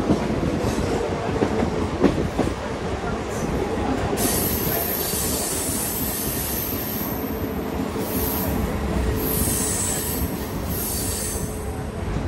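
Mumbai suburban local train running, a low steady rumble of wheels on track. From about four seconds in, a high-pitched metallic squeal from the running gear comes in and swells and fades several times.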